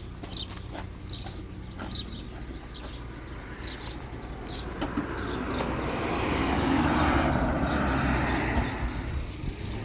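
A motor vehicle passes by, its noise swelling and fading over a few seconds, while birds chirp repeatedly.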